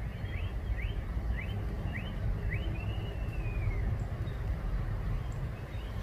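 A songbird calling: a run of short rising chirps, about two a second, then one longer note that rises and falls, over a steady low rumble.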